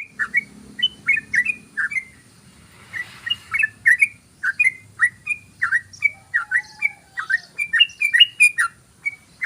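Yellow-vented bulbul (trucukan) calling in a long, rapid run of short bubbling notes, about three a second without a break.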